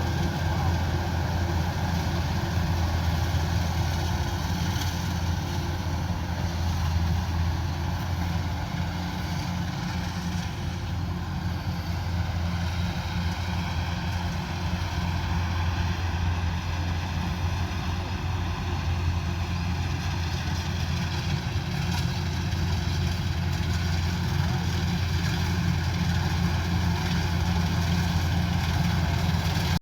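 Diesel engine of a rice combine harvester running at a steady speed, a constant low drone with no change in pitch.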